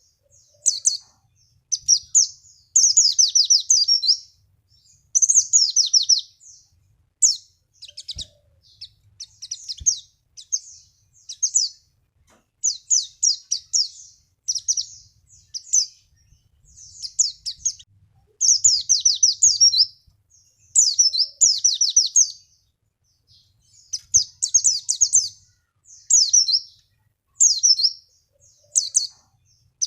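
White-eye (pleci) song used as a lure: high, rapid chirping phrases, quick runs of short notes in bursts of about a second with short pauses between, going on without a break.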